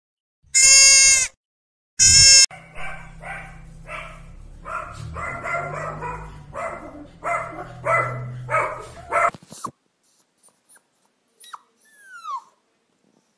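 Two loud bleats, then a small dog yapping in a quick run of short barks, about two a second. Near the end come a few faint high whines, one falling in pitch.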